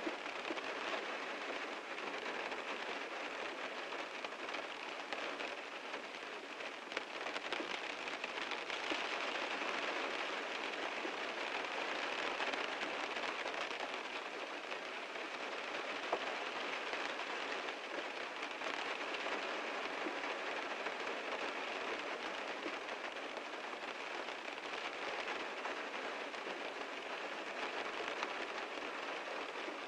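Heavy rain falling steadily on a car, a dense patter of drops on the body.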